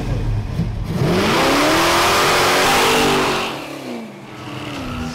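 Intro sound effect of a car engine revving, its pitch rising and then falling away, under a loud rushing hiss that swells about a second in and fades out past the middle.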